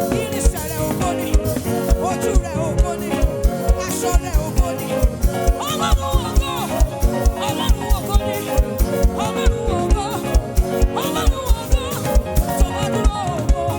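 Live band playing upbeat African gospel praise music with a steady, driving drum beat.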